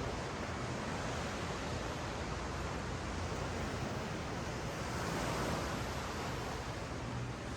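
Ocean surf washing up and down a sand beach, a steady rushing wash that swells a little about five seconds in.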